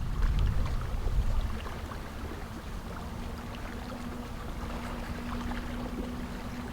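Outdoor ambience on the water: a steady low rumble with light scattered ticks, and a faint steady hum that comes in about halfway through.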